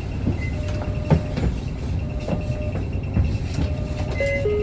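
Cabin noise aboard a 2019 Isuzu Erga city bus: a low rumble from its 4HK1 four-cylinder diesel and the road, with scattered knocks and rattles. A short tone sounds near the end, stepping down in pitch.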